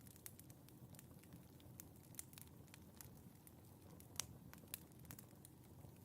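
Wood fire crackling faintly in a fireplace, with irregular small pops over a soft low rumble and one louder pop about four seconds in.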